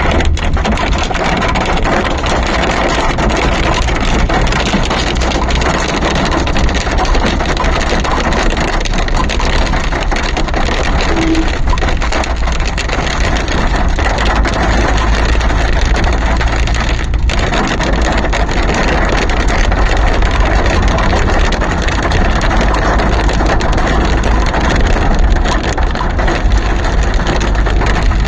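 Snowstorm wind rushing steadily, buffeting the microphone with a deep rumble under a constant hiss.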